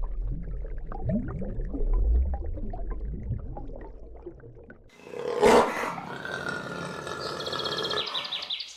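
Deep roaring of a large animal for about five seconds. It is then cut off by a different animal's calls, starting with one loud sharp cry.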